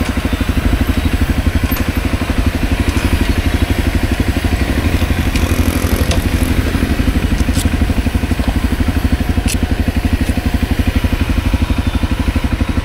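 Honda CRF250L's single-cylinder four-stroke engine running steadily at low revs, an even rapid putter with no revving. A few light clicks come in the middle.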